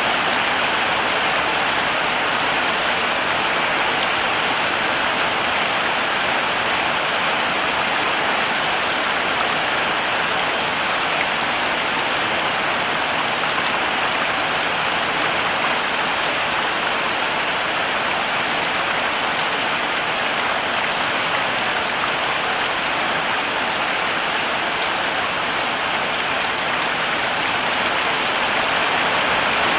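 Steady heavy rain falling, an even hiss of many drops without a break.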